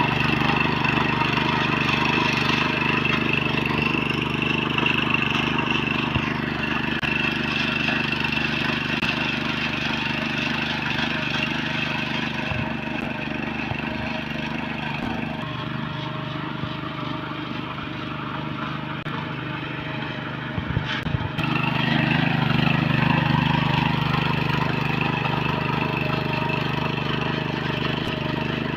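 Tractor diesel engine running steadily under load while working through mud. Its note eases off through the middle and picks up again about three-quarters of the way through, with a few brief knocks as it does.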